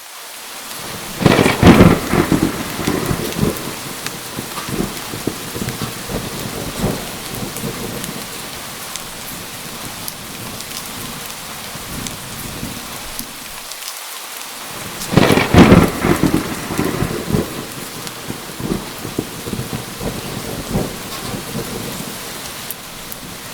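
Steady rain falling, with two thunderclaps, about a second and a half in and again about fifteen seconds in. Each starts with a sharp crackle and trails off in rumbles over several seconds.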